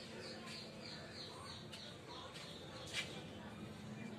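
A small bird chirping in a rapid series of short, falling high chirps, several a second, which stop a little over halfway through; a single sharp click comes about three seconds in.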